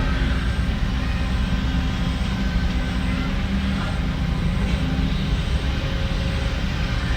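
Diesel engines of heavy earthmoving machinery running steadily: a low, even drone with a faint steady engine tone.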